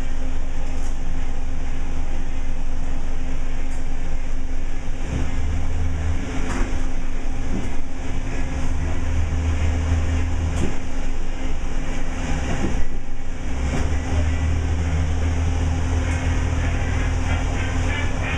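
Diesel railcar of the A-Train limited express running, a steady low drone that swells and eases, with a few short clicks from the running gear.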